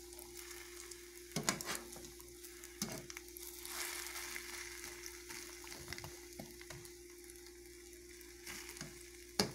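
Egg omelette with calabresa sausage sizzling in a lightly oiled frying pan, with a few clicks of a spatula against the pan, the sharpest near the end.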